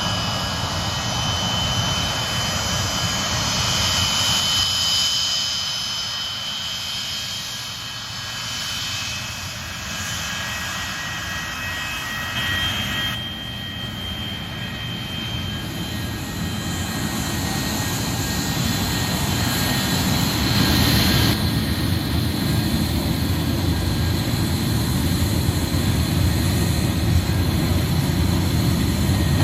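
Boeing 737-200's Pratt & Whitney JT8D turbofan engines running at taxi power: a steady jet rumble with high whining tones over it, the low rumble growing louder in the second half.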